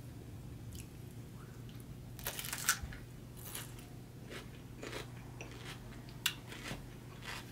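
Close-miked chewing of a mouthful with the mouth closed: scattered clicks and smacks, strongest about two and a half seconds in and again a little after six seconds. A steady low hum lies under it.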